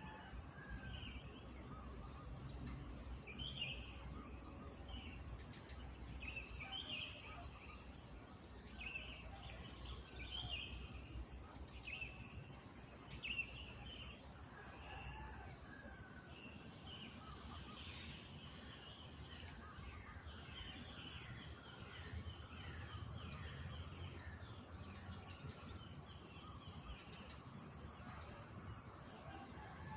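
Rural morning ambience: birds calling over and over, short calls every second or two at first, then a run of quicker, falling chirps in the second half, over a steady high insect drone.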